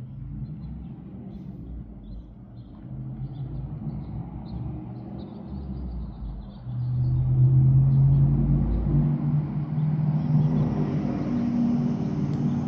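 An engine running steadily, then revving up and getting much louder about seven seconds in.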